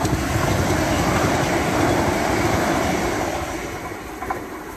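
Electric train rumbling on the line, its noise fading away over the last couple of seconds.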